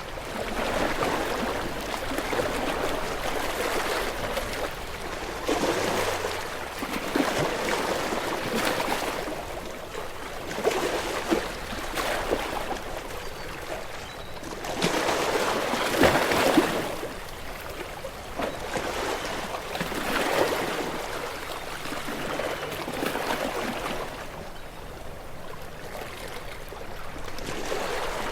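Ocean waves breaking and washing in: a continuous rush of water that swells and eases every few seconds, with a splashy peak about sixteen seconds in.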